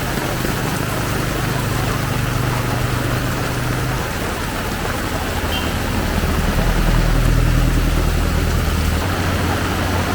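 Heavy rain pouring steadily, with the low hum of motor vehicle engines going by on the road; a louder engine passes from about six to nine seconds in.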